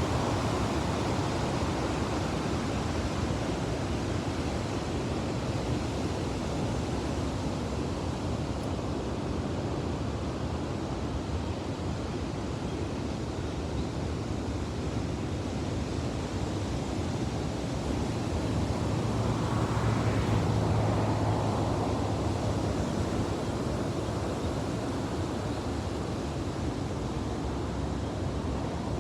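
Ocean surf breaking on a beach, a steady wash of noise that grows louder for a few seconds about two-thirds of the way through as a bigger wave breaks.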